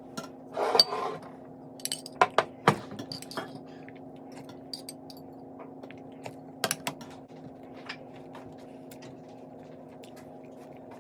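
Cutlery clinking against a plate, a few sharp clinks scattered through, the loudest in the first three seconds, over a steady low hum.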